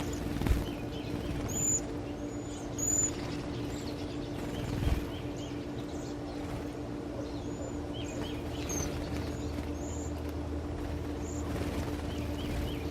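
Small birds chirping: short, high calls scattered through, over a steady low hum.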